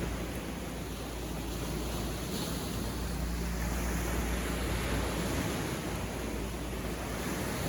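Sea surf washing onto a beach: a steady rush of breaking waves that swells and eases gently.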